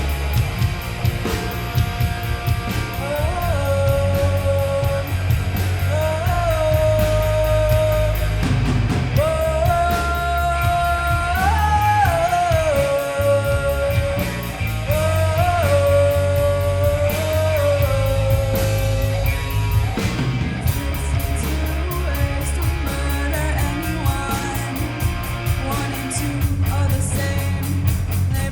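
Live rock band playing a song's instrumental opening: electric guitar, bass and drums with a steady beat. A sustained melody line slides between long held notes.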